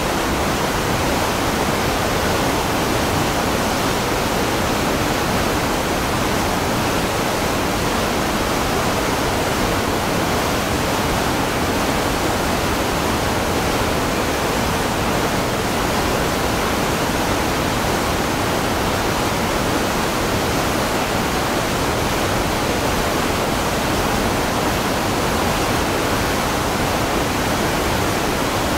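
Waterfall pouring steadily: an even, unbroken wash of water noise that never rises or falls.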